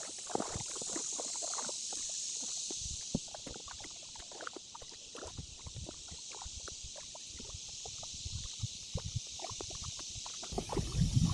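Canoe paddling on a river: small irregular paddle splashes, drips and knocks against the hull over a steady high hiss. A low rumble rises near the end.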